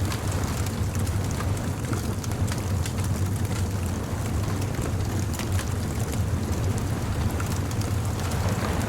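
Bonfire crackling, with many small irregular pops, over a steady low rumble.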